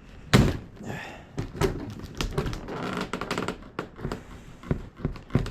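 Handling a boxed tiller and its packaging: one loud knock about a third of a second in, then a run of irregular clicks, taps and scraping.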